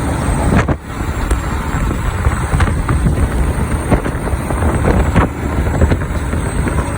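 Steady engine and road noise of a big truck driving, heard inside the cab, with a few brief knocks and rattles and a thin high whine above it.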